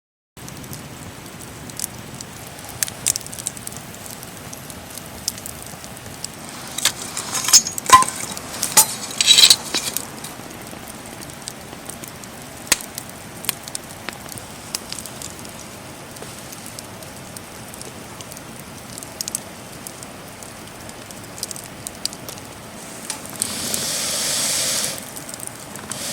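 Wood fire burning in a GuruGuru Fire fire pit, crackling steadily with small sharp pops. Between about 7 and 10 seconds in comes a run of louder pops and clinks, and near the end a rushing hiss lasts about two seconds.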